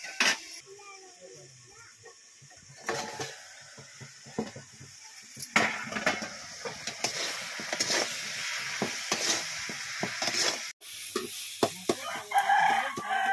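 Chopped tomatoes sizzling in a metal kadhai over a wood fire, with a spatula scraping and clicking against the pan as they are stirred.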